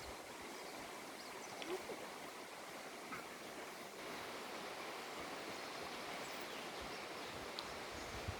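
Steady outdoor rushing ambience with a few faint, short high chirps scattered through it.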